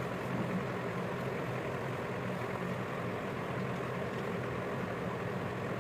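A steady, low mechanical hum at an unchanging pitch, like a machine or engine running nearby.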